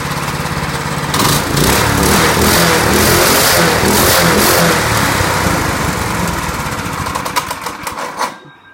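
Predator 212cc single-cylinder four-stroke engine running at idle, then revved up about a second in and held higher for several seconds. It drops back, sputters briefly and shuts off near the end.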